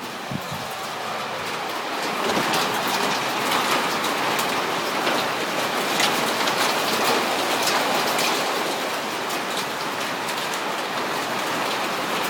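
Hail and rain pelting down, a dense steady hiss flecked with sharp ticks of individual small hailstones, about 3/8 inch, striking hard surfaces. It grows louder over the first couple of seconds, then holds.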